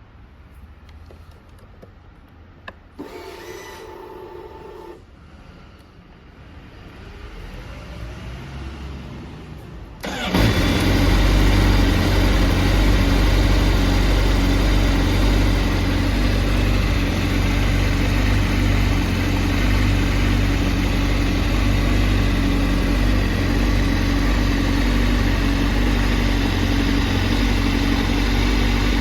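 Honda CBR1000RR-R's inline-four engine: a short whine about three seconds in, then the engine fires about ten seconds in and settles into a loud, steady idle.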